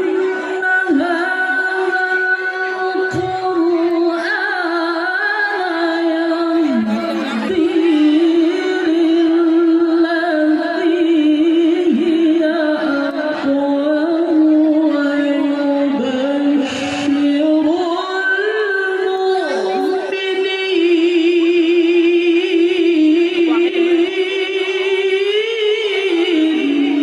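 A male Quran reciter chanting tilawah in a high register, holding long notes with melodic turns and vibrato.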